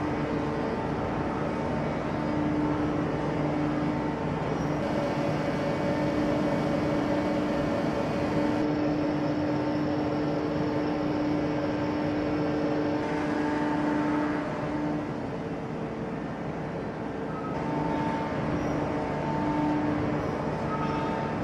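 Heavy forging-shop machinery running with a steady drone and a hum of several steady tones; the sound shifts abruptly a few times.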